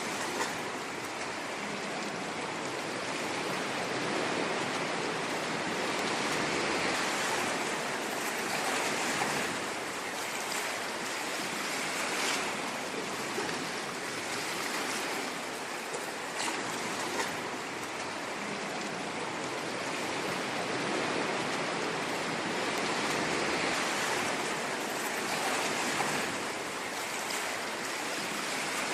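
Ocean surf: a continuous rushing wash of waves that swells and ebbs slowly, with two broad surges and a few brief splashes.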